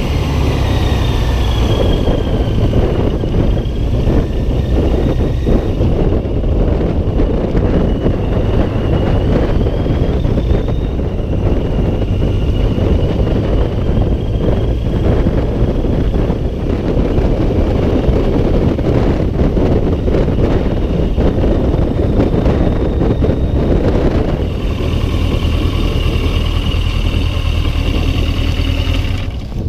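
Heavy wind buffeting on a chest-mounted action camera while riding a motorcycle, with the bike's engine running underneath. The engine hum is clearer near the start and again near the end.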